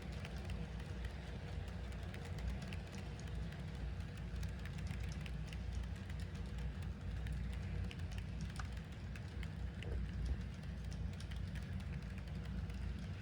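HO-scale model diesel locomotive running steadily on DC track: a low motor hum with the rumble of its train of hoppers and tank cars rolling, and light scattered clicks from wheels on the track.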